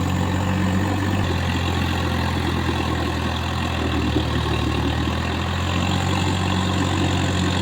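Swaraj tractor's diesel engine running steadily with a low drone, its pitch shifting slightly about a second in.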